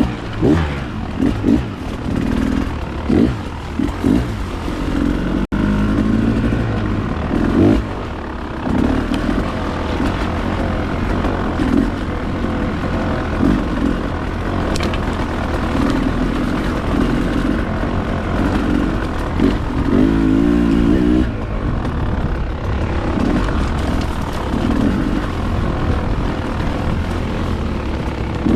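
Dirt bike engine running while riding a woods trail, its note rising and falling with the throttle.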